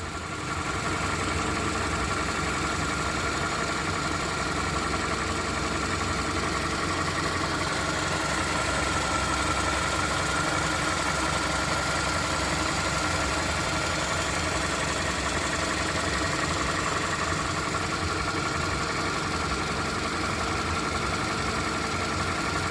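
Freshly overhauled 2007 Toyota Camry engine idling steadily, left running for break-in.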